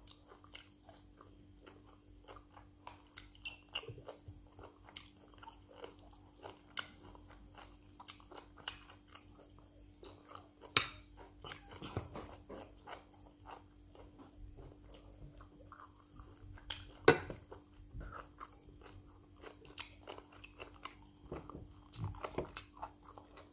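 Close mouth sounds of a person chewing and biting a mouthful of rice and stew with meat: a run of small irregular wet clicks and crunches, with a couple of louder sharp clicks about a third and two-thirds of the way through. A faint steady hum lies underneath.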